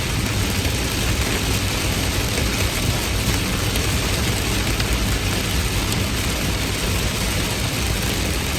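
Heavy rain falling steadily, a dense even hiss of rain on surfaces with a deep low rumble underneath.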